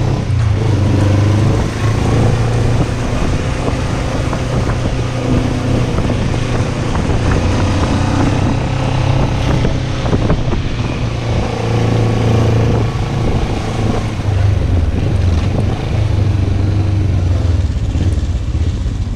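Kawasaki Versys motorcycle engine running under way, its pitch rising a few times as it accelerates. Wind noise rushes over the rider-mounted camera.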